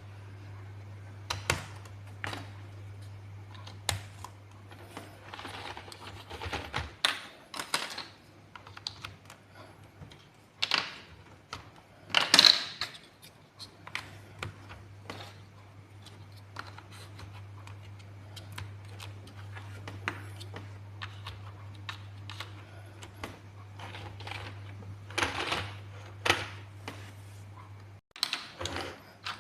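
Plastic building blocks clicking and clattering as they are handled and pressed together, in irregular sharp clicks, over a steady low hum.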